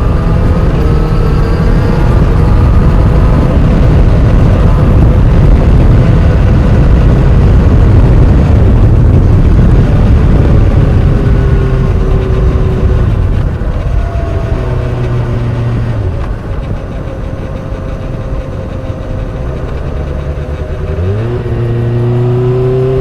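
New motorcycle running with a whine whose pitch glides down through the middle and rises again near the end as the revs come back up, over loud low running noise. The owner isn't sure whether it is normal: the high whine may come from straight-cut gears, but an undulating whirring worries him.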